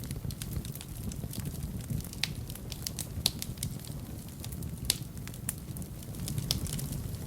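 Fire in a fireplace crackling, with scattered pops over a low, steady rumble of the flames. The sharpest pops come about three and five seconds in.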